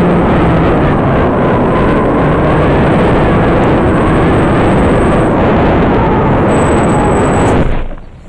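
Loud, heavy wind rush buffeting the microphone, with faint pitched tones beneath it. It cuts off suddenly near the end.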